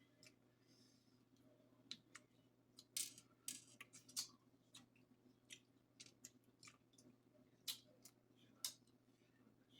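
Irregular sharp clicks and cracks of crab or lobster shell being broken and picked apart by hand close to the microphone, a cluster of them about three to four seconds in and two more near the end.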